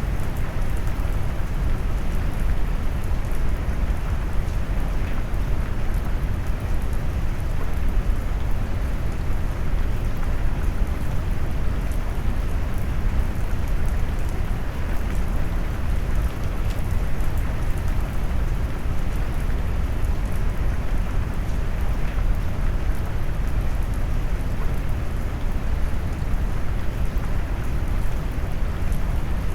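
Steady rain noise mixed with brown noise, deep and low, heaviest in the bass with little high hiss, and even throughout.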